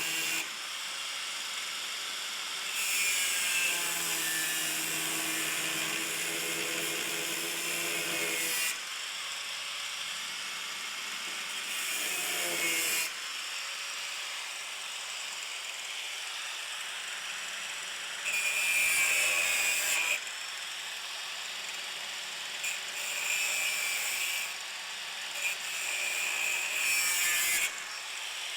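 A power tool cutting out rusted sheet metal. It runs with a steady high hiss and bites in under load several times, each time with a louder, higher whine.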